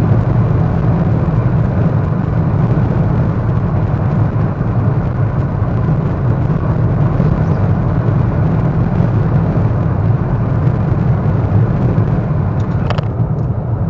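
Steady road and engine rumble inside a moving car's cabin, with a single brief click near the end.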